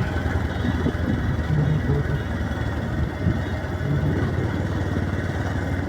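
Bajaj Pulsar motorcycle's single-cylinder engine running steadily while the bike is ridden along a road.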